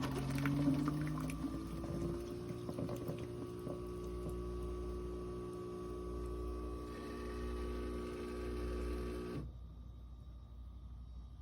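Keurig K-Supreme Plus SMART pod coffee maker brewing. Its pump hums with a tone that rises over the first couple of seconds and then holds steady, and liquid splashes into the cup at first. The hum stops abruptly near the end.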